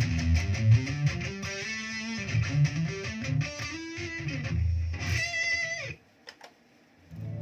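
Electric guitar played through a Zoom G1Xon multi-effects pedal: a run of single notes with slides, ending on a high note held with vibrato. The note cuts off about six seconds in, and after a short silence the next sound starts right at the end.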